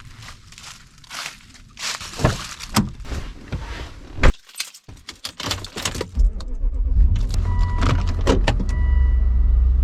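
Rattles, knocks and a jingle like keys being handled. Then, after a short break, a car engine runs with a low rumble while a dashboard warning chime beeps several times.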